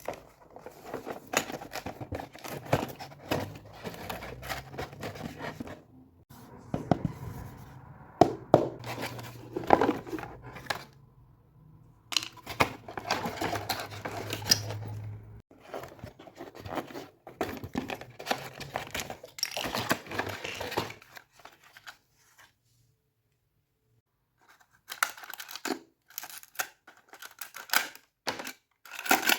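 Toy packaging being torn open and crinkled by hand: cardboard and plastic blister packs of Hot Wheels monster trucks, with dense crackling, scratching and sharp clicks. The sound stops for a couple of seconds about three-quarters of the way through, then starts again.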